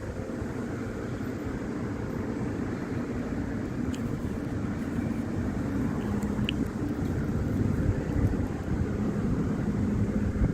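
A steady low motor rumble with a hum, growing slightly louder toward the end, with a couple of faint ticks.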